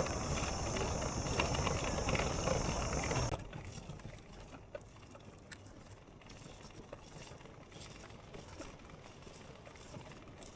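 A bicycle riding along, with tyre noise and rattling, under a steady high-pitched hiss. About three seconds in it all cuts off abruptly, leaving a much quieter background with occasional light clicks and ticks.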